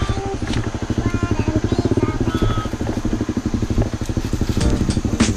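Dirt bike engine running at low revs with an even, rapid chugging beat. A few sharp knocks sound near the end.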